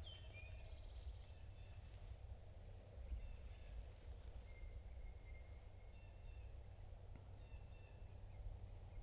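Faint songbirds calling: a falling whistle right at the start, a short rapid trill about a second in, then scattered thin whistled notes including one longer steady note about halfway. A low steady rumble lies underneath.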